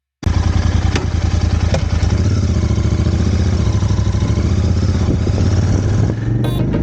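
Royal Enfield Interceptor 650's parallel-twin engine running steadily at low revs, cutting in suddenly from silence.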